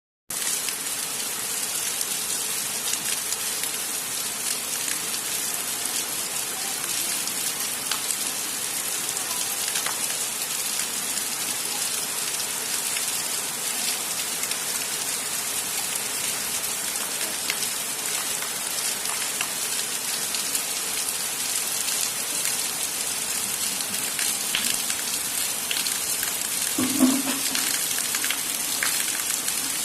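Heavy rain falling steadily, a dense even hiss with many small drop ticks, and a short low-pitched sound about three seconds before the end.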